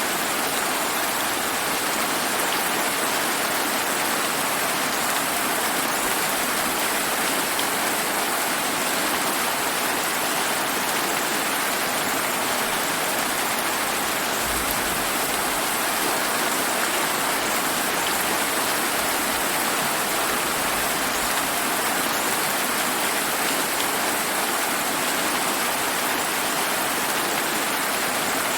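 Steady summer rain falling on surfaces: an even, unbroken hiss that holds its level throughout.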